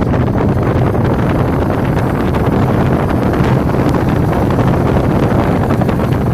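Loud, steady wind buffeting the microphone: a continuous low rumble with crackle.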